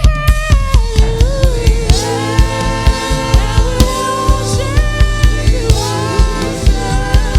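Live gospel worship music from a church band: a drum kit keeping a quick, steady beat under keyboard and other instruments, with a lead voice or melody line gliding over the top.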